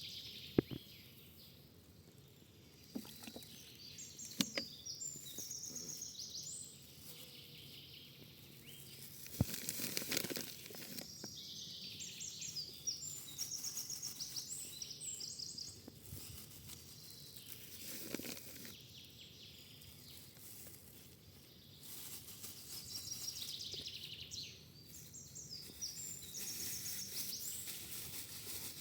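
A songbird singing outdoors, repeating a high trilling phrase about every ten seconds over a low steady background, with a few sharp knocks in the first ten seconds.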